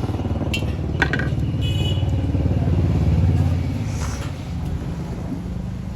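A motorcycle engine running with a steady low putter, growing louder to about three seconds in and then fading away. A few short metallic clinks sound in the first two seconds.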